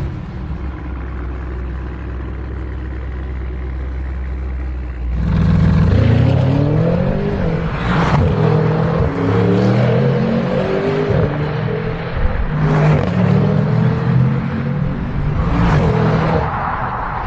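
Audi RS6 C8's twin-turbo 4.0 V8 through an Akrapovič Evolution Line titanium exhaust: a steady idle for about five seconds, then it revs up and down repeatedly with the pitch rising and falling, and several sharp bursts along the way.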